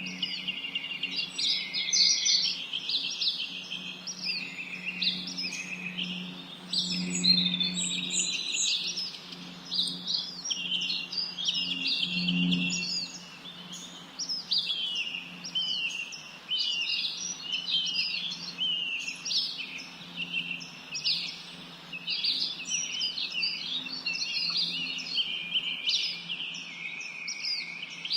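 Many small birds chirping and singing at once, a dense, unbroken chorus of quick high calls and trills, over a low steady hum.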